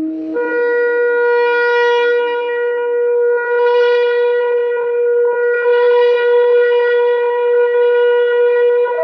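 A shofar blown in one long sustained blast: it breaks up from a lower note to a higher one right at the start, then holds a single steady note for about nine seconds, growing brighter in swells roughly every two seconds.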